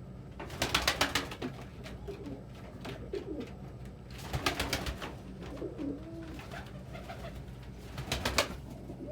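Domestic pigeons cooing in a low, wavering voice, the courtship cooing of a cock bird working on his mate. Three short bursts of rapid clattering break in near the start, about halfway and near the end.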